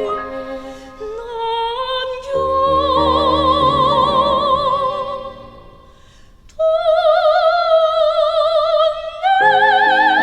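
Korean art song sung by a classical soprano with instrumental accompaniment: long held notes with wide vibrato that step upward. There is a brief lull about six seconds in, and a higher held note begins near the end.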